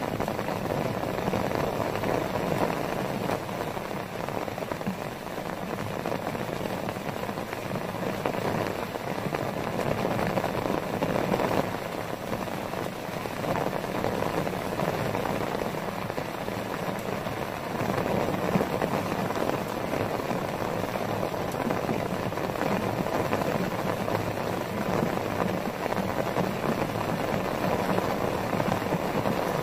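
Heavy rain falling steadily onto a tarp shelter and the grass around it.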